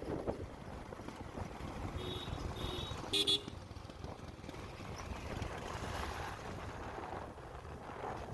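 Vehicle horn beeping three times in quick succession, the third beep loudest, over a steady low rumble of road and engine noise during a motorcycle ride.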